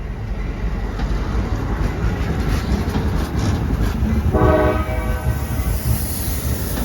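A train running past with a steady low rumble of wheels on the rails, and one short horn blast lasting about a second, a little past halfway through.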